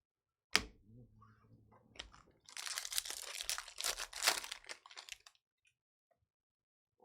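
A sharp knock, then about three seconds of crackling and crinkling as a trading-card pack wrapper is torn open and crumpled.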